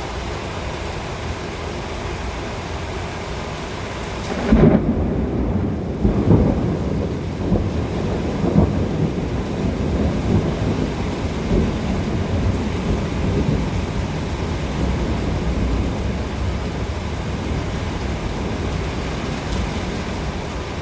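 Steady rain, with a sudden low rumble of thunder about four seconds in that rolls on in swells for several seconds.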